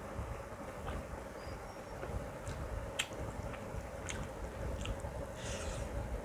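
A person chewing mouthfuls of mutton curry and biryani, with scattered small wet clicks and smacks of the mouth and a brief squelchy smack about five seconds in, over a faint steady hum.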